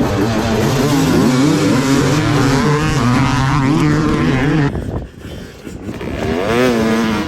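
Dirt bike engine revving hard, its pitch rising and falling with the throttle. It drops away suddenly just under five seconds in, then revs up again near the end.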